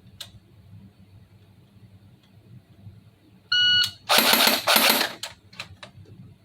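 A shot timer beeps once, then the FN P90 airsoft replica fires two short rapid bursts, each a dense mechanical clatter about half a second long. A few lighter clicks follow.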